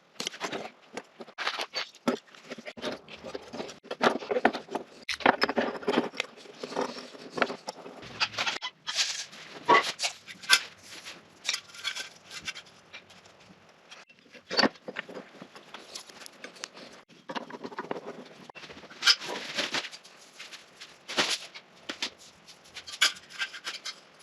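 Hand work on electrical fittings: an irregular run of clicks, knocks and rustles as parts such as an electrical box are handled and fitted.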